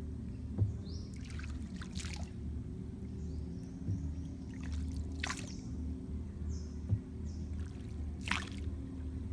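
Wooden paddle dipping into still water, with short splashes and trickles every second or two as the rowboat is paddled along, over a steady low hum.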